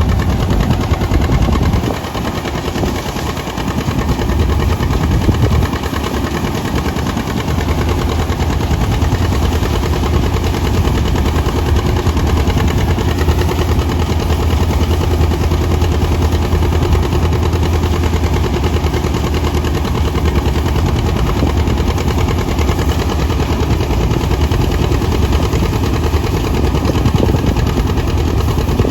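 John Deere 730 two-cylinder diesel tractor engine running steadily, with a fast popping exhaust beat; it dips a little in loudness about two seconds in, then holds steady.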